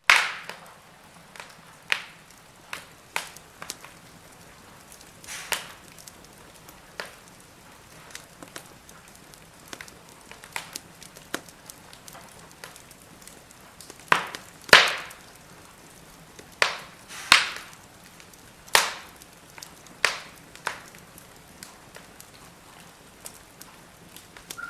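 Firewood burning in a fire pit, crackling with irregular sharp pops over a faint steady hiss; the loudest pops come in a cluster a little past the middle.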